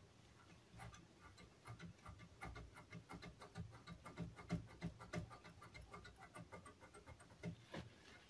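Faint, irregular small clicks and taps, a few a second, from handling small parts of a radio's dial mechanism.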